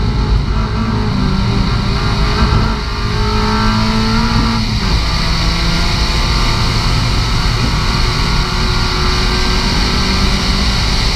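S1600 rallycross car's 1.6-litre four-cylinder engine racing at high revs, heard from inside the cabin. The note drops briefly about three seconds in and again about five seconds in, then climbs and holds.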